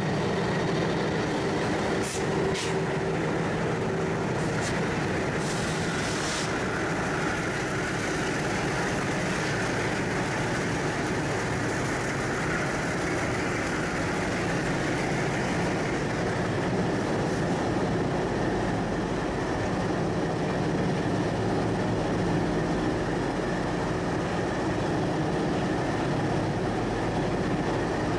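Diesel freight train passing close by: the locomotive's engine running at the start, then a long string of container wagons rolling past with steady wheel-on-rail noise. There are a few brief sharp high sounds between about two and six seconds in.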